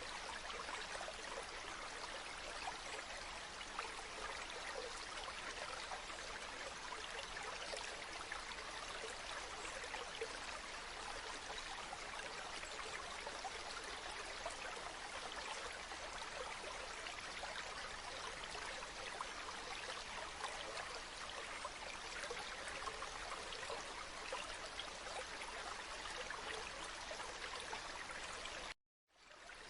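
River water flowing steadily, a continuous rushing and trickling. A little before the end it cuts out to silence for a moment and then comes back, like a splice in a looped recording.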